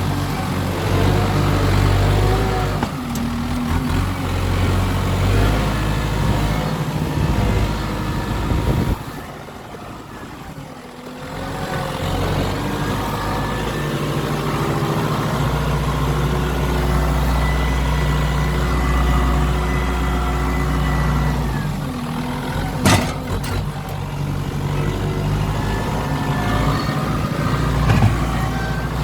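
Kubota M7040 tractor's four-cylinder diesel engine running under varying load as the front loader is worked. The engine note rises and falls, and drops off for a couple of seconds about nine seconds in. A sharp knock comes a little after twenty seconds, with another near the end.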